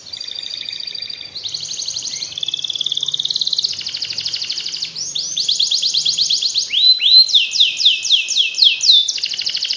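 Canary singing a long, unbroken song of fast trills. It moves through runs of rapid repeated notes, each lasting about one to two seconds, and each new run is led in by quick rising sweeps.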